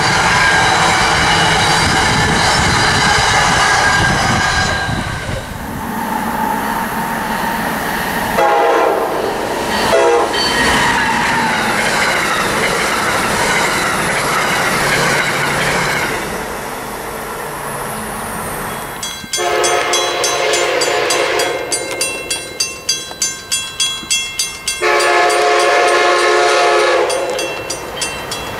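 Amtrak trains passing at speed: a steady rush of wheel and rail noise as an Acela Express goes by, then a regional train's cars rolling past with some rail clatter. Later, an Amtrak train's multi-note horn sounds for a grade crossing: a steady blast, a run of short rapid toots, then a long blast, with the crossing bell ringing behind it.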